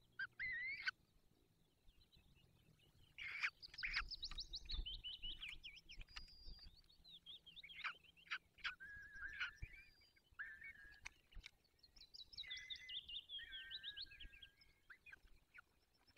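Birds calling: bouts of quick, high chirps and trills mixed with a few longer whistled notes, faint overall. There is a short burst right at the start, then longer runs of calls from about three to ten seconds in and again from about twelve to fifteen seconds in.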